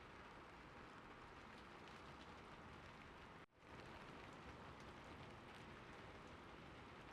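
Faint, steady, gentle rain. It drops out for an instant about halfway through, then carries on.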